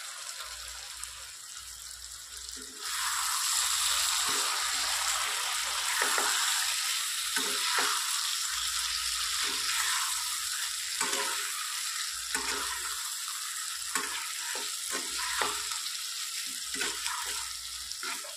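Chicken pieces frying in masala in a non-stick kadai, sizzling while a spatula stirs and scrapes the pan in short, irregular strokes. The sizzling gets much louder about three seconds in.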